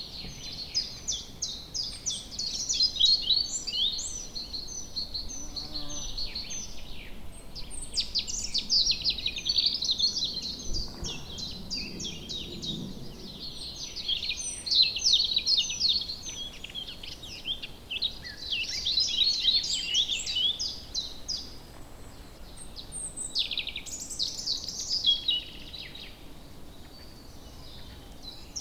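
Woodland songbirds singing in a dense chorus of quick chirps and trills, with phrases coming one over another, above a faint low background hum.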